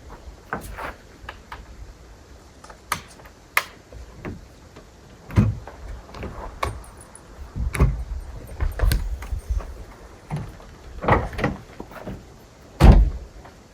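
Irregular clicks, knocks and thumps of things being handled and set down, with a heavy thump near the end.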